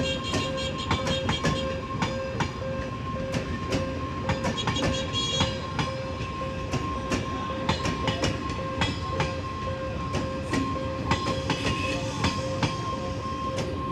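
Passenger train's coaches rolling past, steel wheels clattering over the rail joints with a continuous rumble, and a steady high whine running under it.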